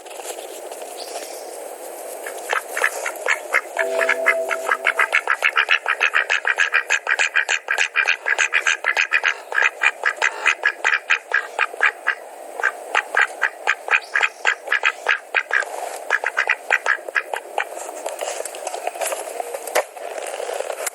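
Rapid runs of quack-like animal calls, several a second, broken by short pauses.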